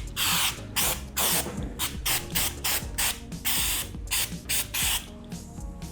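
Aerosol solvent cleaner sprayed onto a plastic motorcycle fairing panel in a rapid, irregular series of short hissing bursts, about ten in all, to degrease it before repair.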